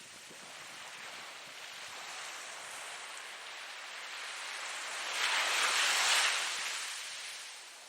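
Ocean waves washing in: a steady rush of surf that slowly builds, breaks loudest about five to six seconds in, and then recedes.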